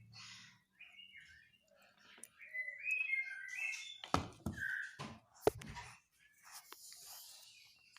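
A bird twittering in short chirps, with two sharp knocks in the second half.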